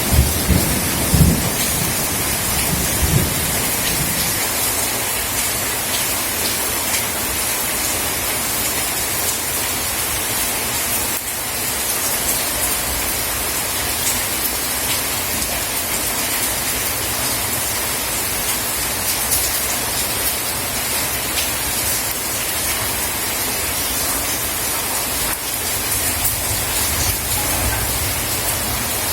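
Steady heavy rain falling, with thunder rumbling low in the first few seconds and faintly again near the end.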